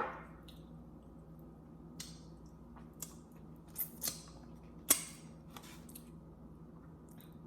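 A handful of light clicks and taps from utensils and food containers being handled while eating, over a steady low hum.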